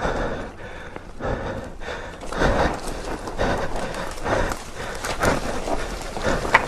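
Footsteps scrambling down a steep slope of loose ground, irregular crunching steps about once a second.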